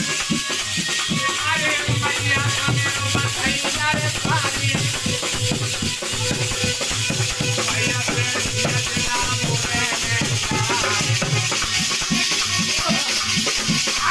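Aalha folk music: fast, steady hand-drum strokes with rattling percussion, and a wavering melody line above them.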